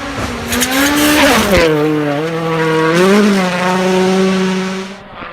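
Rally car engine at high revs: the pitch climbs, drops sharply about a second and a half in, then holds steady with a brief rise around three seconds. A loud rushing noise rides over the engine for the first second and a half, and the sound changes abruptly near the end.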